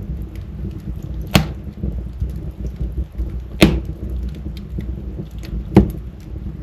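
Wood fire burning in a fireplace: a steady low rumble of flames with many small crackles, and three loud sharp pops about two seconds apart.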